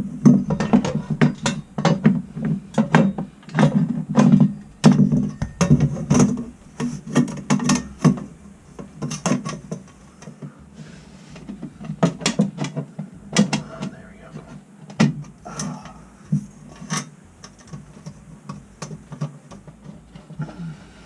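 Sheet-metal access door of a gas hot-air furnace being fitted back on: a run of irregular metal clanks and rattles, thickest in the first half and thinning out later.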